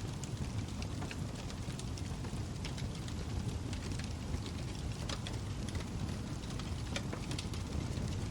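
Log fire burning in a fireplace: a steady low rumble of flame with frequent, irregular sharp crackles and pops from the burning wood, several a second.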